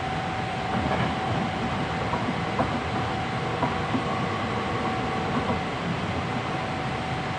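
Interior running noise of a Hankyu 7300 series electric train at speed, picked up from the car floor: a steady rumble of wheels on rail with a few light rail-joint clicks and a faint steady whine.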